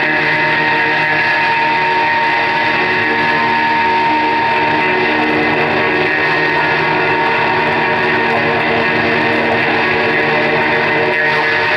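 Live amplified music with electric guitar: a loud, dense, steady wash of many held tones, without pauses or a clear beat.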